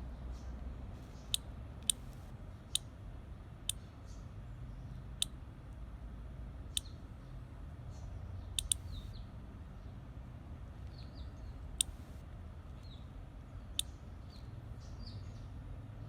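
About ten sharp, irregularly spaced clicks over a steady low hum, with faint short high chirps in the last few seconds.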